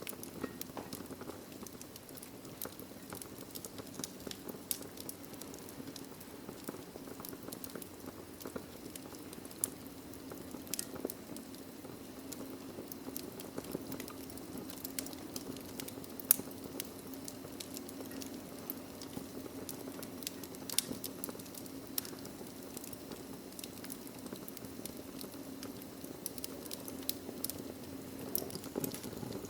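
Wood fire burning in a fireplace: a steady low rush of flame with many irregular crackles and pops from the logs, one sharper pop about halfway through.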